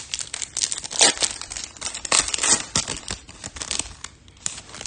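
Trading-card packs and cards being handled, crinkling and rustling in a quick run of sharp crackles.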